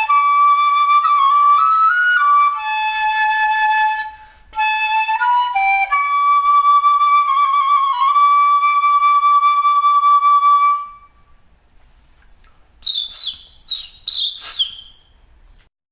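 Flute playing a short melody: a few notes and slides, then a long held high note with vibrato that stops about eleven seconds in. After it come three or four short, high, falling chirps.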